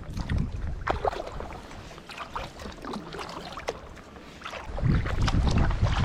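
Water splashing and dripping around a kayak, in many small irregular splashes. Wind buffets the microphone in gusts at the start and again from about five seconds in.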